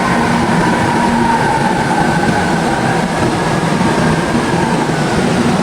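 Steady rumble and noise of a moving vehicle, with faint whining tones that fall slowly.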